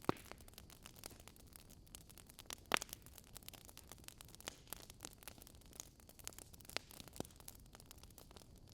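Wood fire crackling: irregular small pops and snaps from burning logs over a faint hiss, with a louder pop right at the start and another a little under three seconds in.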